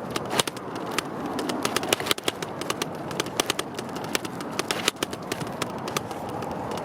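Bicycle riding noise: a steady low rush with many irregular sharp clicks and rattles.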